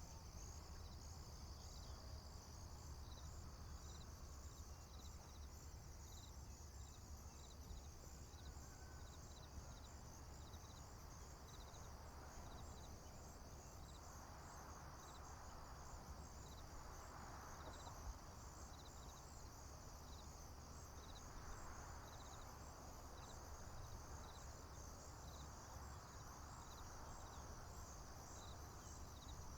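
Faint chorus of field crickets and other insects: a steady high-pitched trill with regular chirps repeating under it, over a low rumble. Soft swells of noise rise and fall through the second half.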